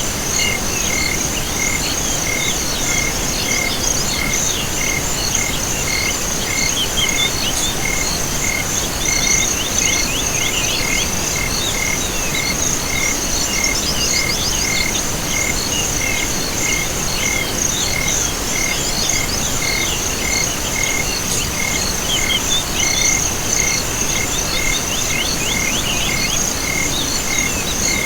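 Night chorus of crickets and other insects with frogs calling. A continuous high pulsing trill runs throughout, with a lower, evenly spaced chirp repeating steadily and many scattered short calls overlapping.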